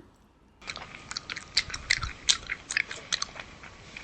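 A person biting and chewing lahmacun, the thin Turkish flatbread with a minced-meat topping. Many small irregular crunches and clicks start about half a second in.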